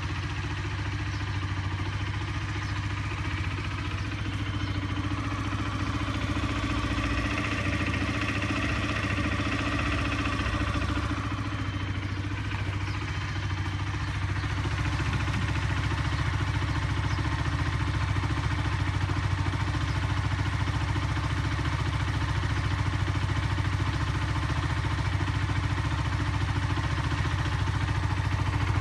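Honda CBR motorcycle's single-cylinder four-stroke engine running steadily with a rattling noise from inside the engine, the sign of a fractured gudgeon pin.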